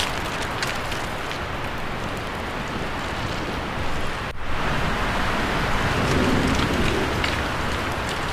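Wind blowing through tree leaves: a steady, rain-like rustling hiss that dips for a moment about four seconds in.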